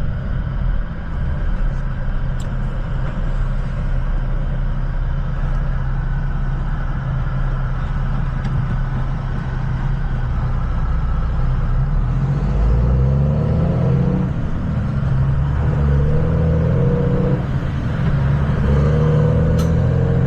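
Vehicle engine and road noise heard from inside the cab while driving. In the second half the engine pitch rises several times as it accelerates.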